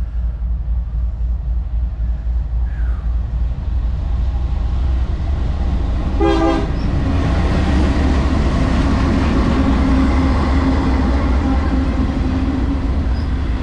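CSX freight train rolling past close by with a steady, heavy low rumble. A short horn toot sounds about six seconds in, and the train noise grows louder after it.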